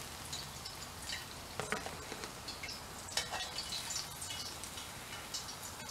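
Cornmeal-battered bass fillets deep-frying in hot grease in a cast-iron skillet: a steady sizzle with scattered crackles, and a few sharper clicks about a second and a half in and about three seconds in.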